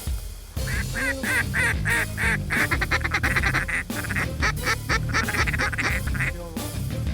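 Duck-like quacking in a fast run of short repeated calls, starting about half a second in, with music playing underneath.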